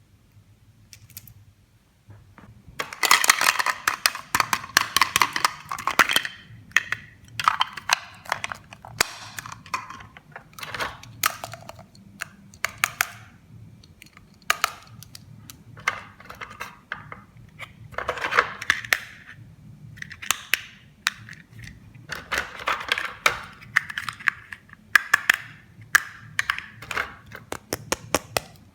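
Plastic toy pieces and packaging being handled in an unboxing: repeated bursts of crinkling and rustling mixed with many sharp clicks and taps, starting about two seconds in.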